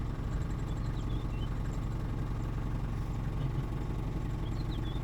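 Vehicle engine idling steadily, with a few faint short bird chirps about a second in and again near the end.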